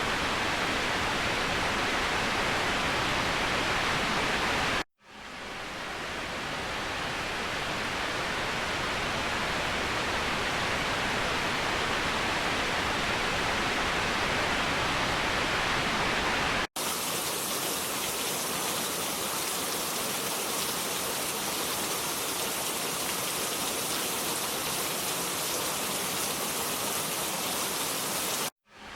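Waterfall rushing as a steady, even hiss of falling water. It cuts out briefly about five seconds in and again just before the end, and about seventeen seconds in it switches abruptly to a thinner, brighter rush with little low rumble.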